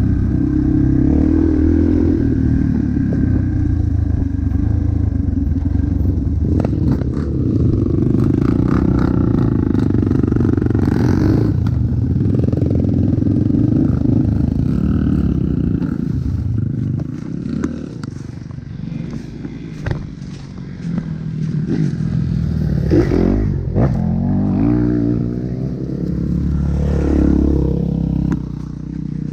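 Motocross dirt bike engine running hard, with the revs rising and falling several times in the last third.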